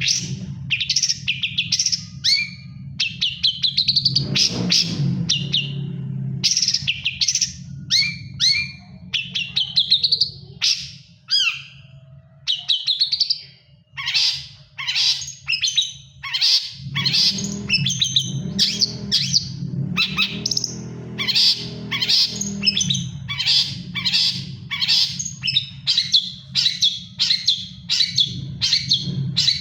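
Long-tailed shrike (cendet) singing a rapid run of short, sharp chirps and whistled notes, packed more tightly in the second half. The bird is in moult yet still singing strongly.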